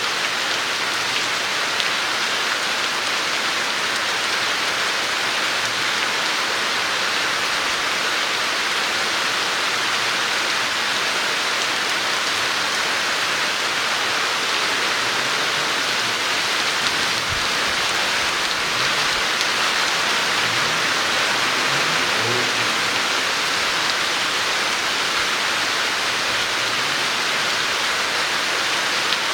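Heavy tropical-storm rain falling steadily and hard, an even unbroken hiss of rain on surfaces.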